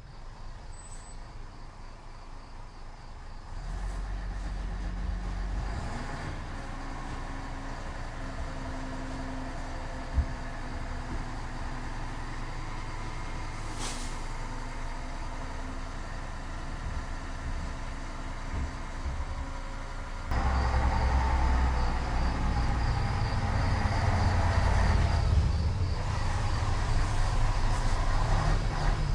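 Radio-controlled truck running. Its sound steps up about four seconds in and jumps louder about two-thirds of the way through. Crickets chirp faintly behind it.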